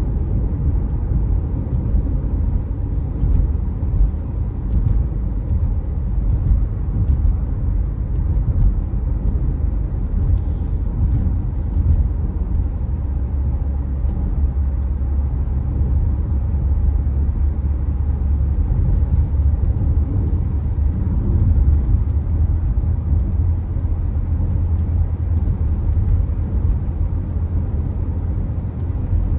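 A car driving at steady speed: a constant low rumble of engine and tyre noise, with a few faint clicks.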